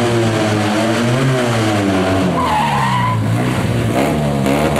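Fiat 126's air-cooled two-cylinder engine revving up and down, with a wavering tyre squeal lasting under a second about halfway through.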